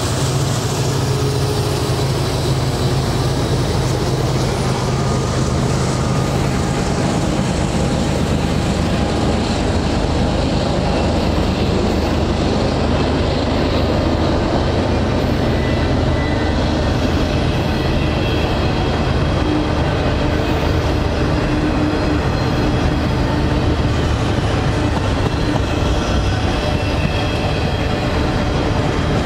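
Double-stack intermodal freight train's container-loaded well cars rolling steadily past close by, their steel wheels running on the rails in a continuous loud din.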